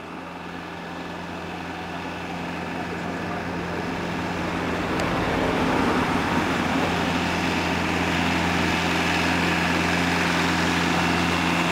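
Vehicle engine running with a steady low hum, growing louder over the first six seconds and then holding steady.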